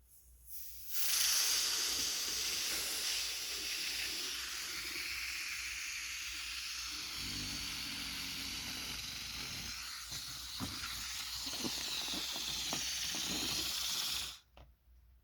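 Air hissing steadily through a balloon's valve, starting about a second in and cutting off sharply near the end, with a few faint crinkles in the second half.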